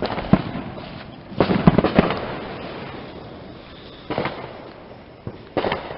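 Fireworks going off: a series of sharp bangs, each dying away in a rumble, with a cluster of reports about a second and a half in and more near the four- and six-second marks.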